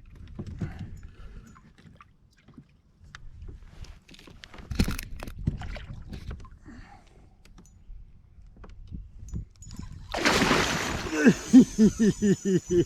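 Light knocks and bumps against a kayak, then a sudden loud rush of splashing water about ten seconds in, followed by a quick run of short pulses.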